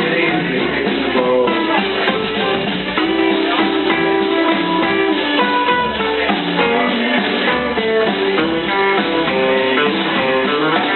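Live swing band playing an instrumental passage led by guitar, with bass and drums.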